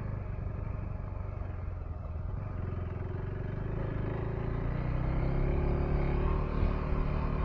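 Single-cylinder engine of a 2025 KTM 390 Enduro R dirt bike running under way off-road, growing louder over the second half as the rider picks up throttle.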